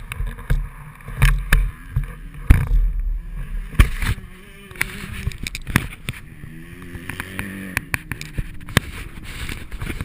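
Wind buffeting and repeated knocks and thumps on a GoPro's microphone during a motocross ride. A dirt bike engine's note rises and falls faintly underneath, mostly in the middle of the stretch.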